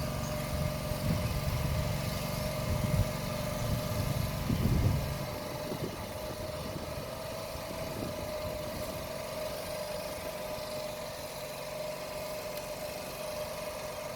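Tractor engine running under throttle, then dropping to a quieter, steady idle about five seconds in.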